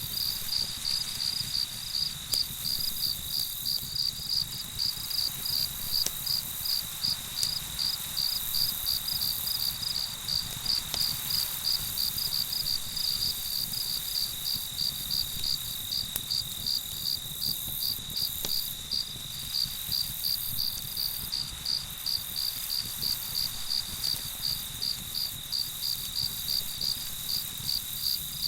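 Night crickets: one chirping in even pulses about two to three times a second, over another trilling steadily at a slightly lower pitch.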